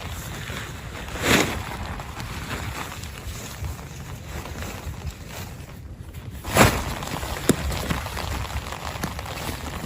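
Steady heavy rain with wind, swelling in two louder gusts, one about a second in and one past the middle. Sharp drip taps land a few times in the second half.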